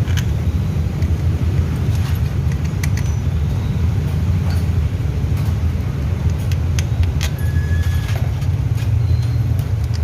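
Steady low engine rumble of a motor vehicle running, with scattered light metallic clicks and taps over it.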